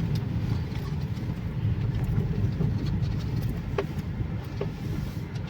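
A road vehicle's engine running steadily, a low rumble.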